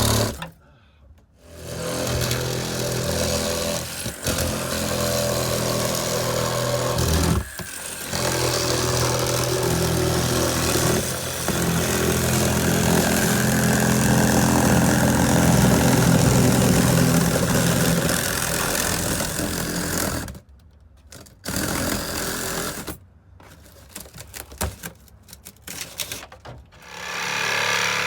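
Electric power tool running in long stretches with a steady motor hum, stopping briefly a few times, then starting and stopping in short bursts near the end.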